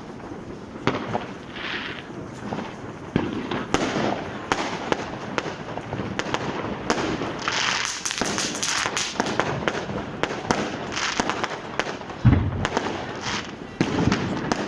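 New Year's Eve fireworks and firecrackers going off all around: a dense, continuous run of cracks and bangs, thickest about halfway through, with a deeper heavy boom near the end.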